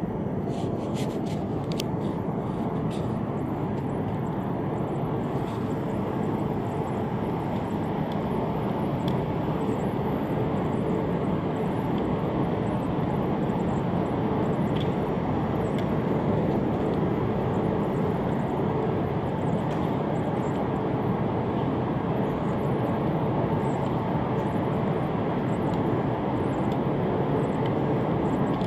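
Steady rumbling hum of an E5-series Shinkansen train at a station platform, growing slowly louder. A few faint clicks sound in the first seconds.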